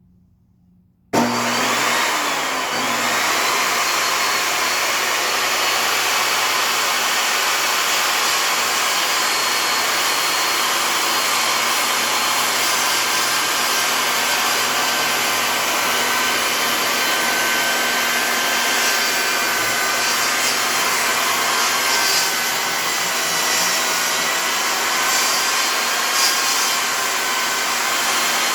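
Table saw switched on about a second in and running steadily, set up for ripping fence pickets into 1-inch strips.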